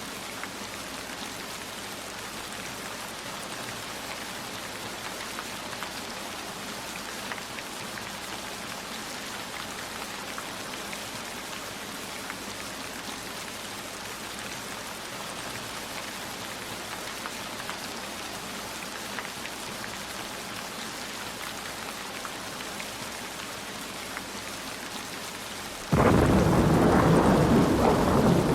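Steady rain with scattered drops ticking. Near the end, a much louder low rumble of thunder starts abruptly and keeps going.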